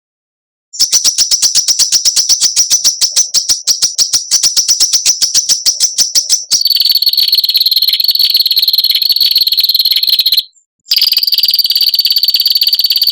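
Songbird recording: after a brief silence, a rapid run of sharp, harsh notes at about ten a second for several seconds, which then turns into a fast, high buzzing trill of the kind bird keepers call 'besetan', broken once by a short gap before it resumes.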